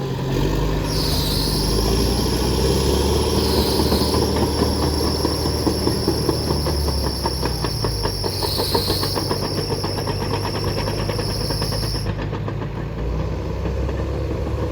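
Heavy diesel logging machinery running, with a steady high whine that starts about a second in, dips in pitch briefly three times, and stops near the end. A fast, regular rattle runs through the middle.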